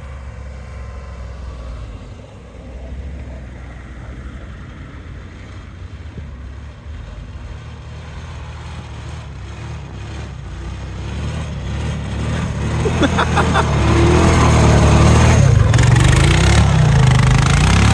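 Car engine running, growing louder about two-thirds of the way in and revving, its pitch rising and falling over the last few seconds.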